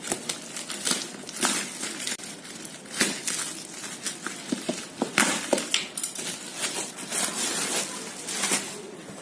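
Delivery packaging crinkling and rustling in irregular bursts as it is handled and unwrapped by hand.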